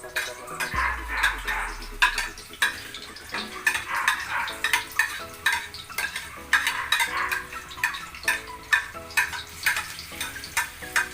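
Aromatics frying in hot oil in a pan, sizzling steadily, while a utensil stirs them with many quick scrapes and knocks against the pan. A low rumble sounds briefly about a second in.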